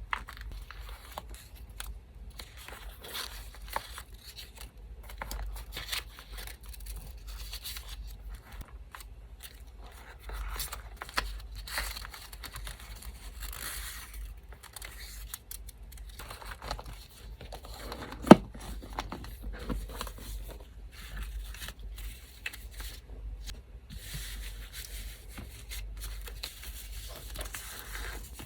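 Paper scraps being torn and cut with scissors: rustling, crinkling and small snips and ticks throughout, with one sharp click a little past halfway. A steady low electric-fan hum runs underneath.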